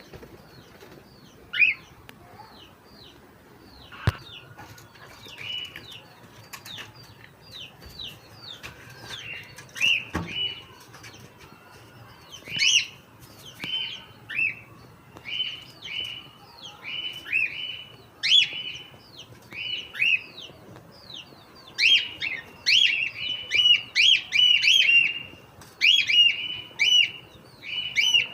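Cockatiel chirping in short, repeated high calls, sparse at first and becoming louder and more frequent over the second half. A few sharp knocks sound in the first ten seconds.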